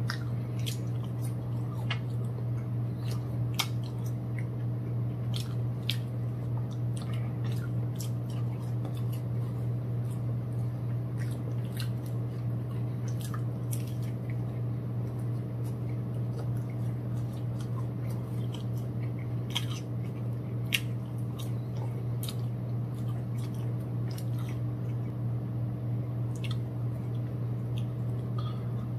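Close-miked chewing and biting of breaded fried chicken and fries: wet mouth sounds with scattered short crunches and clicks, over a steady low hum.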